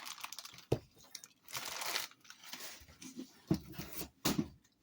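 Wrapping crinkling and rustling, with scattered small clicks and a few soft knocks from items being handled.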